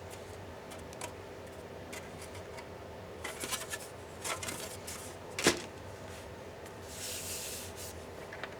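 Small clicks and taps of laptop parts and hand tools being handled during disassembly, with one sharp click about five and a half seconds in and a brief hissy scrape a little later.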